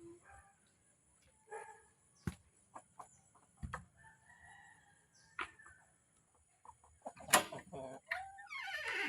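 Chickens clucking, with a rooster starting to crow near the end, among scattered sharp clicks and knocks.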